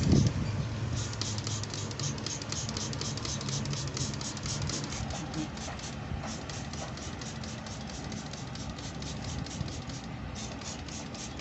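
Coil-cleaner solution being sprayed onto an air conditioner's coil: a fast, even train of hissing spray pulses, about four to five a second, over a low steady hum.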